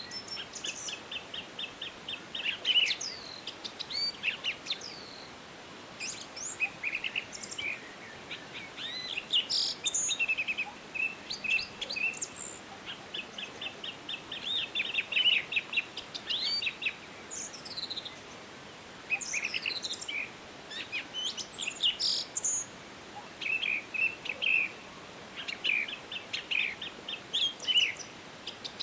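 Several forest songbirds singing and calling: rapid trills of quick, even notes that come back every few seconds, mixed with short, sharp chirps and whistles, over a faint steady hiss of background.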